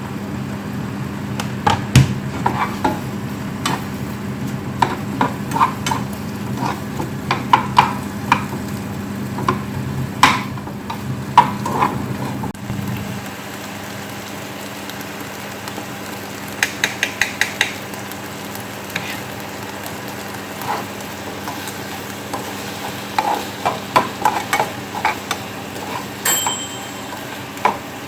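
Kitchen work: utensils knocking, clinking and scraping against pans and dishes, over a low steady hum that stops about halfway. A quick run of about six ticks follows a few seconds later, and there is a brief high beep near the end.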